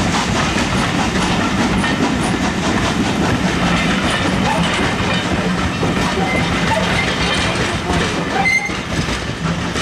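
Railway passenger coaches rolling past close by, with the wheels rumbling and clicking over the rail joints. A brief high squeal is heard about eight and a half seconds in.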